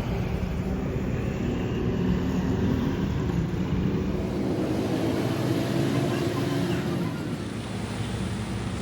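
Heavy machinery running steadily at an even speed, a continuous low drone.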